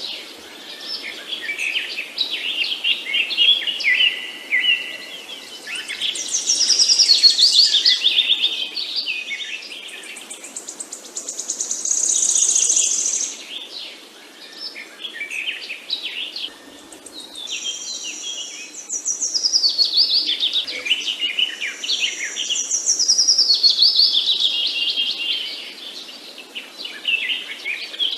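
Several songbirds singing and chirping together, with rapid trills and falling whistled phrases that come in overlapping waves every few seconds.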